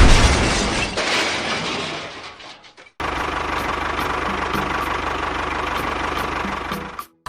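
A loud rushing noise that fades away over the first three seconds, then a sudden cut to a small motor running steadily with an even pulse.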